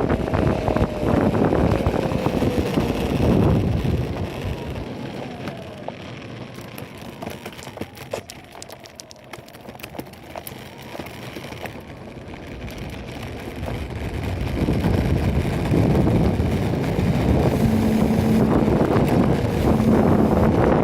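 Wind rushing over a phone microphone during an electric skateboard ride. It is loud for the first few seconds, drops off through the middle with a few scattered clicks, and builds back up from about fifteen seconds in.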